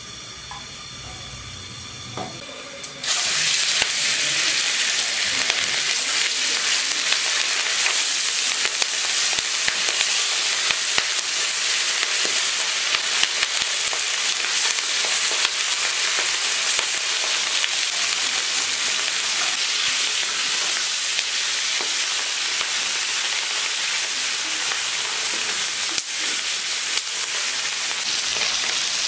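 Food going into hot oil in a kadai about three seconds in, setting off loud, steady sizzling frying, with occasional clicks of stirring.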